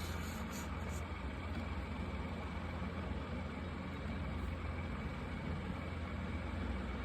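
Marker tips drawing on paper, a soft, even scratching, over a steady low hum.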